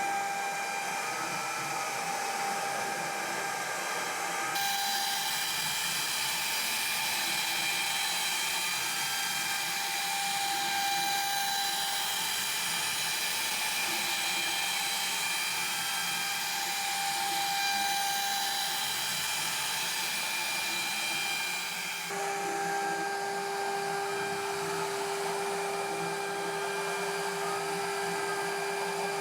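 CNC milling machine's high-speed spindle whining steadily as it cuts, with short rising-and-falling swoops in pitch every few seconds. The mix of tones changes abruptly about four seconds in and again about three quarters of the way through.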